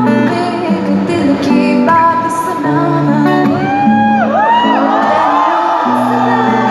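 Amplified live music: a woman singing over acoustic guitar, the voice gliding and holding notes.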